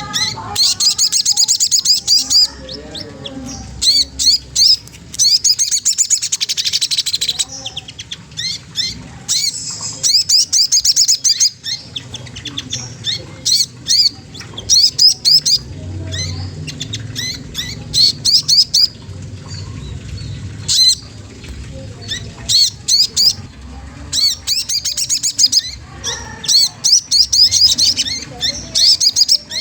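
Sogon trotol (streaked spiderhunter) calling in repeated bouts of rapid, high, sharp chirps, each bout a second or two long and coming every few seconds; a provoking call used to stir rival birds into sound.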